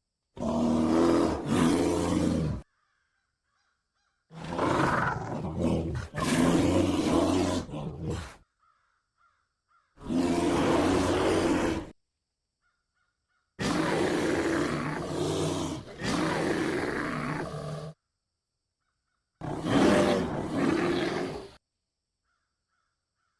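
Brown bear roaring and growling in five separate bursts, each one to four seconds long, with silent gaps between them.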